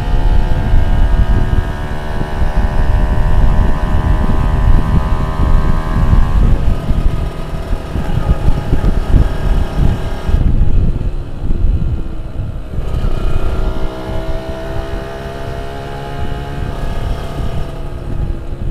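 Two-stroke motorcycle engine pulling hard, its pitch rising over the first several seconds, dropping off about ten seconds in, then rising again and falling away near the end, over a heavy low rumble.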